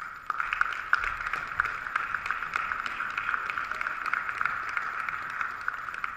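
Audience applauding: a dense, steady patter of many hands clapping that starts suddenly.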